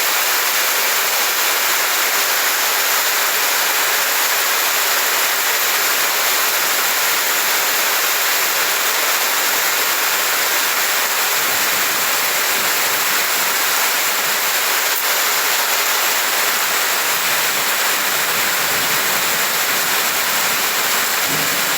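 Heavy rain falling steadily, with floodwater running along the street, one even loud rush throughout.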